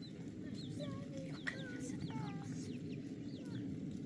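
Chickens calling: many short, high, falling chirps with a few lower calls, over a steady low background noise.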